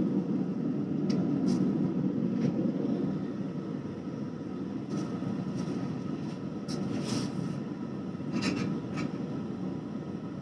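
Forge running with a steady low rumble, with a few light metallic clinks scattered through it as the hot damascus billet is being twisted.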